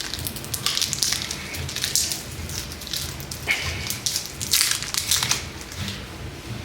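Close crunching of a Kit Kat wafer bar being bitten and chewed: an irregular run of crisp crackles.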